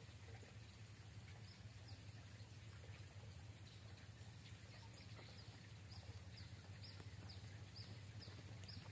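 Faint outdoor ambience: a bird repeating short, high, falling chirps about two or three times a second through the second half, over a steady high-pitched whine and a low hum.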